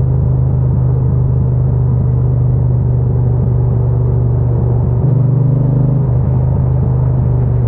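Triumph Bonneville T120's 1200 cc parallel-twin engine and exhaust running steadily, with a brief change in tone about five seconds in.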